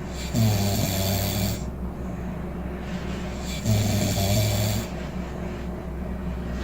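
A person snoring, two loud rasping snores about three seconds apart, over a low steady hum.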